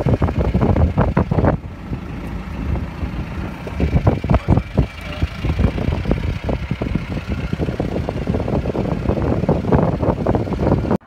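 Mahindra Roxor's diesel engine running as the open utility vehicle drives a rough trail, with a dense, irregular clatter of knocks, rattles and buffets over a low rumble.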